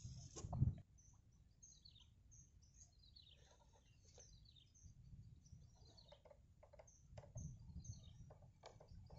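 Small birds chirping faintly and repeatedly, in short, high, falling notes. A dull thump sounds just under a second in.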